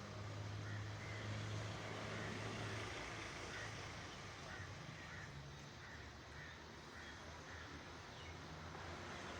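Steady outdoor background noise with faint short bird calls repeating throughout. A low hum sits underneath at first and fades after about three seconds.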